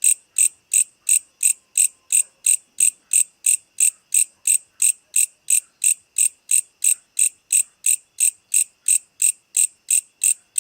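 An insect calling with short, high chirps repeated in a steady, even rhythm of about three a second.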